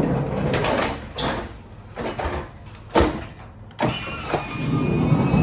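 A manual pallet jack working on a trailer floor: a rolling rumble, then a few sharp metal clanks, the loudest about three seconds in, and a short squeak, before the rolling starts again.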